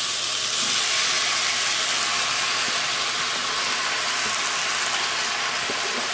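Diced tomato, green chile and cilantro sizzling in hot oil as they are scraped from a cutting board into a saucepan of frying onion and garlic: a steady frying hiss.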